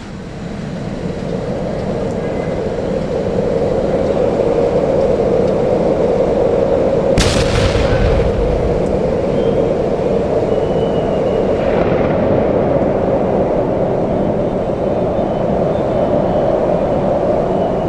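Heavy rain pouring down as a loud, steady rush, with a sudden louder burst about seven seconds in that lasts a second or so. Faint short car horn toots sound now and then behind it.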